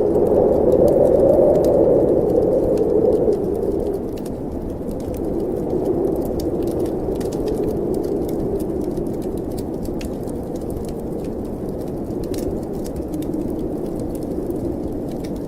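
Snowstorm wind blowing with a wood fire crackling: the wind swells for the first few seconds, then settles to a steady rush, with scattered sharp pops from the fire throughout.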